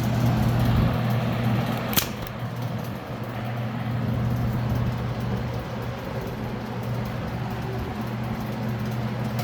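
Electric box fan running: a steady motor hum under a constant rush of moving air. A low rumble fades out about a second in, and a sharp click comes about two seconds in.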